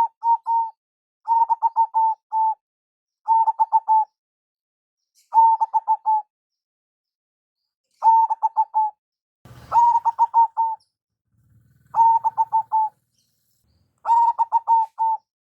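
Zebra dove (perkutut) cooing: a phrase of quick, rapidly pulsed coo notes repeated about every one to two seconds, around eight phrases in all.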